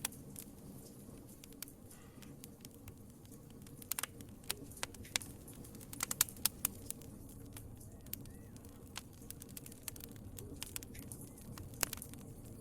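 Wood fire crackling in a fireplace: irregular sharp pops and snaps over a low steady rumble, with a quick flurry of louder pops around the middle.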